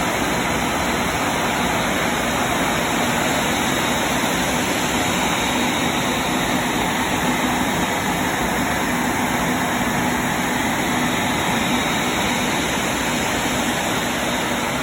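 Airbus A380's four jet engines running at low taxi power: a steady rushing hiss with a faint high whine held throughout.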